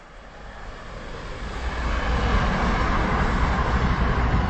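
Pesa Elf electric multiple unit approaching and passing at speed: a rushing noise with a low rumble that grows louder over the first two seconds and stays loud as the train goes by.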